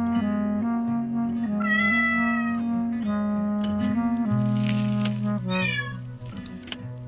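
A cat meowing twice over background instrumental music: one long meow about two seconds in and a short falling meow near six seconds.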